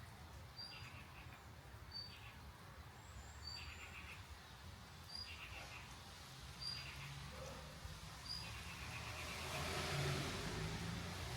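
A small bird repeats a short high call followed by a brief buzzy phrase, about once every second and a half. Near the end a broad rushing noise with a low hum swells up and grows loudest.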